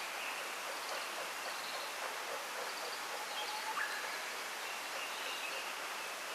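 Wind rustling through a bamboo grove as a steady hiss, with faint scattered birdsong: short high chirps and a brief rising call a little before four seconds in.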